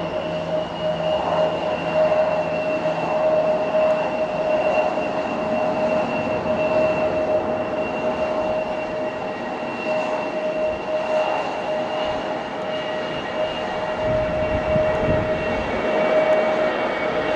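Airliner jet engines running with a steady whine over a broad rush of noise. Wind gusts buffet the microphone in the last few seconds.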